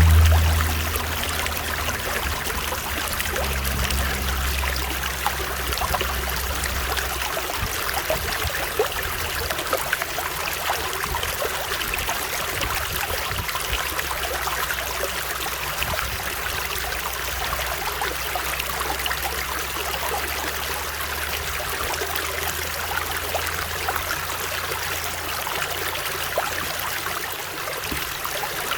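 Running water of a stream: a steady rushing with many small splashes and trickles, and a low rumble underneath for the first several seconds that then fades away.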